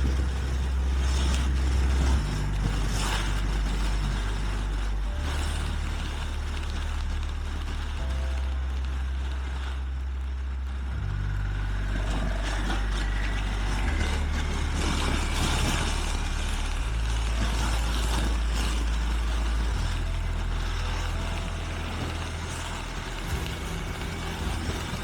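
A motorcycle being ridden along an open road, its engine and the wind rushing over the helmet camera, under background music with a slow, stepping bass line. A faint rising tone about halfway through suggests the engine pulling up through the revs.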